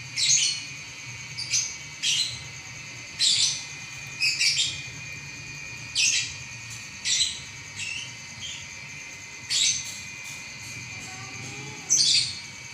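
Lovebird in continuous "ngacor" song: short, shrill chirps about a dozen times, roughly once a second, with a brief pause near the end.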